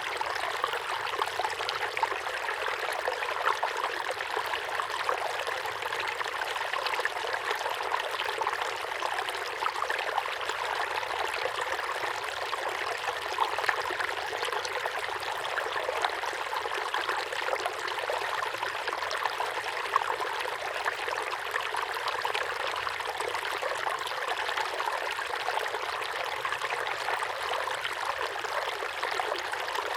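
Small waterfall pouring steadily into a pond: a continuous splashing of falling water with many small droplet splashes and little low rumble.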